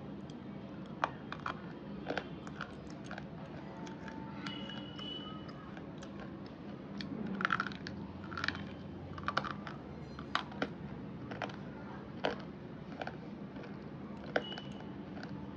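Slate pencils being bitten and chewed: short, sharp, irregular crunches and crackles, a dozen or so, coming thickest in the middle, over a steady low hum.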